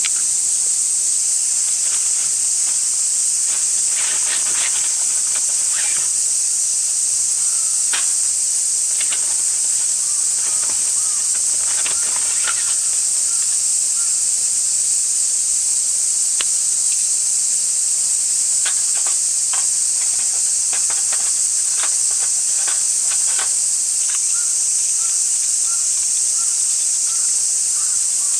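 Dense chorus of cicadas: a loud, steady, high-pitched buzzing that never lets up, with a few faint scattered clicks.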